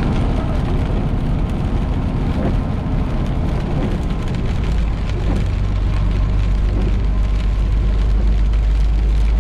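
Semi truck on the road: a steady low rumble under an even rushing noise, as heard from the cab.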